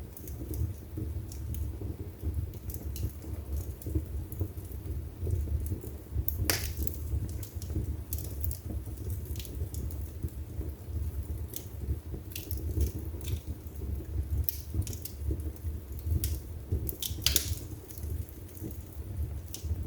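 Wood fire burning in a fireplace: a low steady rumble of the flames with irregular sharp crackles and pops from the burning logs, two louder pops about six and seventeen seconds in.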